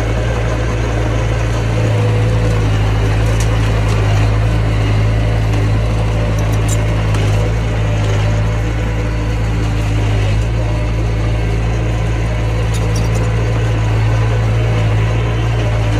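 Heavy machinery's diesel engine running steadily at one speed, a deep even drone, with a few faint high clinks.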